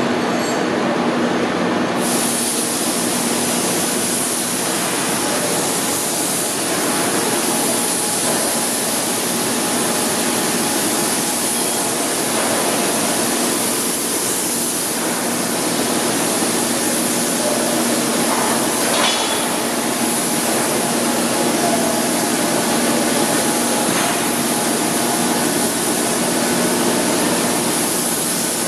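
Blanchard 22K-42 vertical rotary surface grinder running, a steady loud machine noise with a constant hum under it. About two seconds in, a brighter hiss joins and stays.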